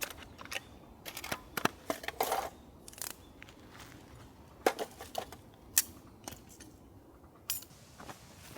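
Irregular sharp clicks and light knocks of small hard objects, with a few louder knocks about two, four and a half and six seconds in.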